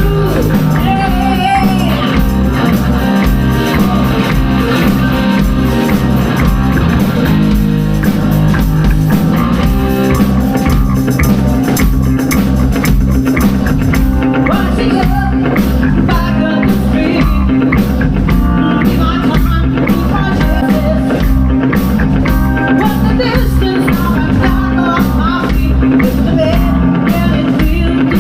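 Live rock band playing a song: electric guitars, bass and drum kit with a steady beat, and a voice singing over it.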